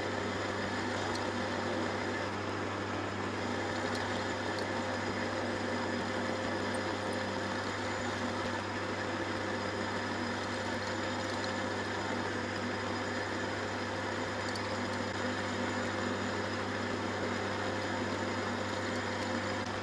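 Lathe running steadily with a letter Q drill boring into a cast iron bar held in its chuck. It is an even machine hum with a few fixed tones, unchanged throughout.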